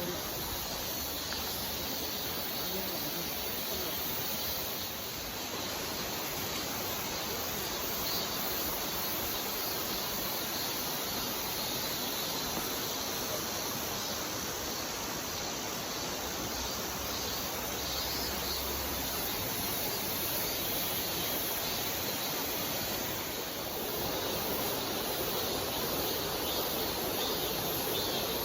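Mountain valley stream flowing over rocks, a steady rushing of water that grows slightly louder near the end.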